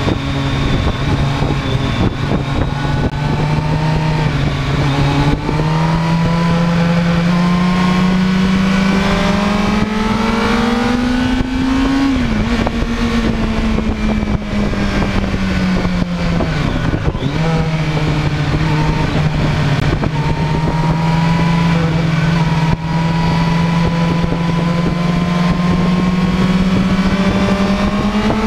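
Sport motorcycle engine running hard on a race track, heard from on board, with constant wind and road noise. The engine note climbs steadily for several seconds, drops sharply about twelve seconds in, falls away for a few more seconds, then holds nearly level through a long stretch.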